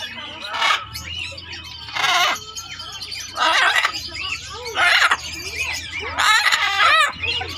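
A flock of parrots and lovebirds calling at once: constant chirping and chattering, broken by loud, harsh squawks about every second.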